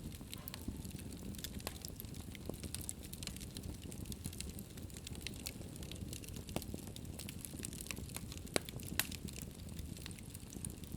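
Wood fire burning in a fireplace: a steady low rumble of flames with frequent irregular crackles and pops, a couple of sharper pops near the end.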